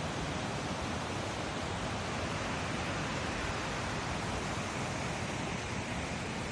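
Fast-flowing mountain water rushing steadily, an even wash of noise that does not change.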